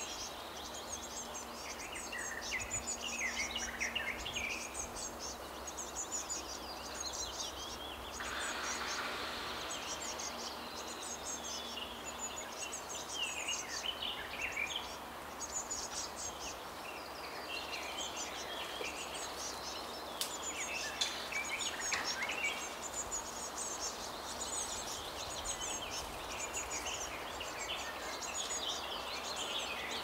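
Nestling songbirds and birds around the nest chirping, high-pitched and almost without a break, over a steady outdoor background. A short rushing noise comes about eight seconds in.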